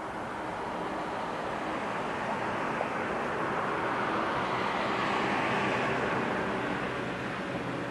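A vehicle passing by: its noise swells gradually to a peak about five seconds in, then eases off.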